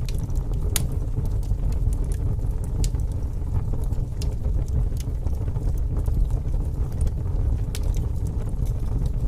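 Fire burning in a fireplace: a steady low rumble of flames with sharp crackling pops about once a second.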